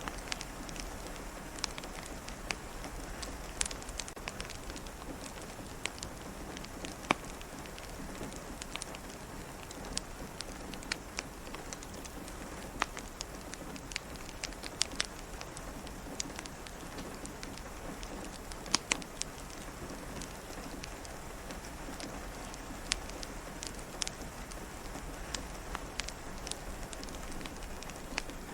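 Steady rain pattering against a window, with a fireplace crackling: an even hiss broken by scattered sharp pops and taps.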